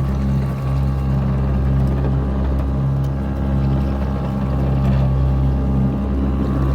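A boat motor running steadily at an even pitch.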